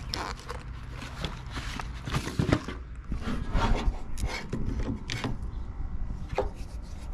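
Irregular rubbing and scraping with light knocks, like hands working on something by hand.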